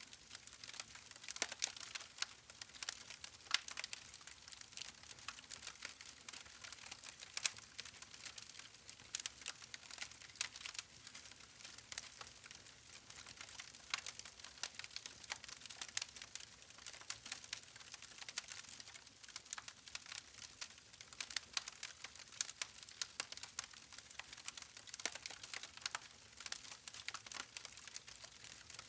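Wood campfire burning, with a steady hiss and frequent sharp, irregular crackles and pops from the logs.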